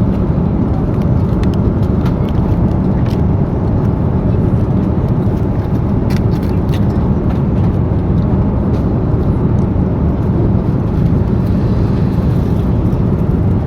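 Steady low roar of a jet airliner's cabin noise in flight, with a few faint light clicks and taps scattered through it.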